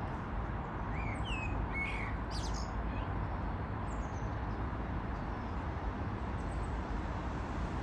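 A bird gives several short, high chirps between about one and three seconds in, and one faint chirp a little later, over a steady low background rumble.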